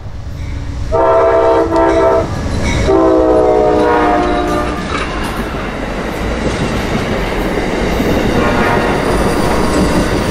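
Amtrak passenger train blowing its horn in two blasts as it passes, a short one about a second in and a longer one that falls slightly in pitch. Then comes the steady rumble and clatter of the passenger cars rolling by at speed.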